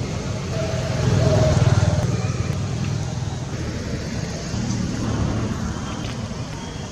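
Motor vehicle engine running nearby: a low rumble that swells about a second in and then slowly fades.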